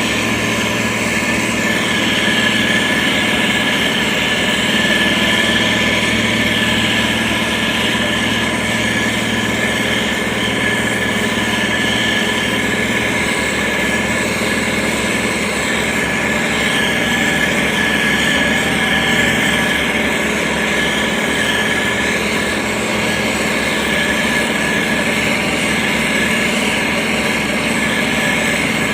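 SANY STG190C-8S motor grader's diesel engine running steadily while spreading gravel, with a constant high whine over the engine note.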